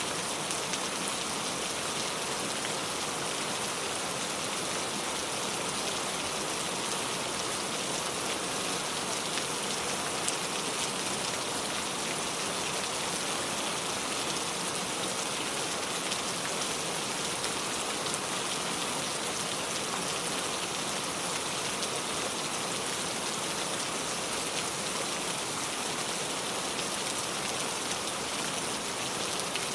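Steady rain falling, an even hiss of drops with fine patter, with no thunder.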